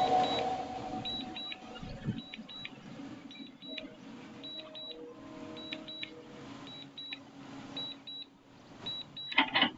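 Short high electronic beeps in pairs, about one pair a second, over a faint steady hum.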